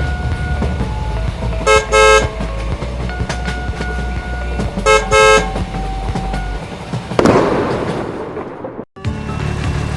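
Two quick double honks of a vehicle horn, about three seconds apart, over steady background music. Later a rushing noise swells and fades, and there is a brief cut-out just before the music picks up again.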